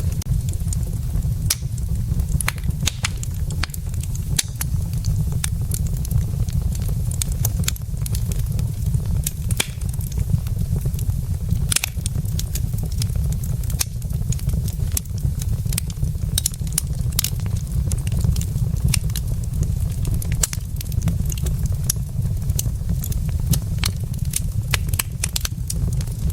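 Wood logs burning in a fireplace, crackling with frequent sharp, irregular pops over a steady low rumble.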